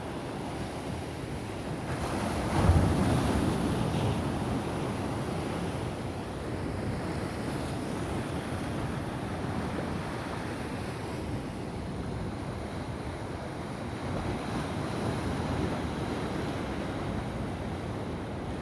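Sea waves washing onto the shore in a steady wash, with one louder wave breaking about two and a half seconds in. Wind buffets the microphone.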